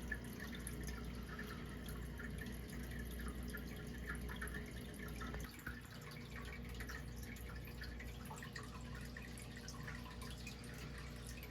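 Faint water dripping and trickling in quick irregular drops, over a steady low hum.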